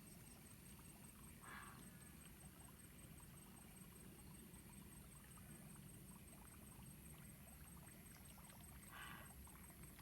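Near silence, with faint scattered ticks and two short hissing swishes, about a second and a half in and again near the end.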